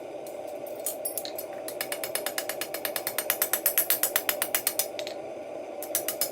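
Rapid, evenly spaced mechanical clicking, about ten clicks a second, like a ratchet, in runs with brief pauses, over a steady hum.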